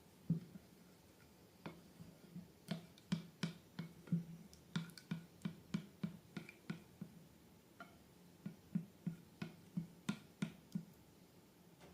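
Slime being squeezed and worked by hand, giving a run of irregular sticky clicks and small pops, two to four a second.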